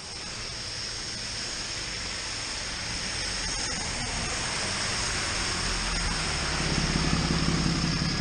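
A motor vehicle coming up behind a moving bicycle and overtaking it, its engine and tyre noise growing steadily louder, over constant wind and road noise. A low engine hum comes in clearly about six seconds in as it draws alongside.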